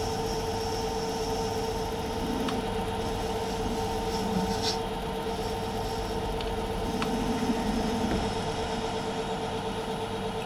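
Myford metal lathe running with a steady hum during a roughing cut on a metal workpiece, with a few light ticks.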